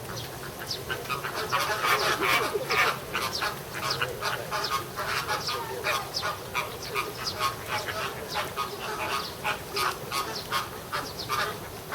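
A flock of American flamingos honking back and forth in a squabble: many short, nasal calls overlapping, several a second, loudest about two seconds in.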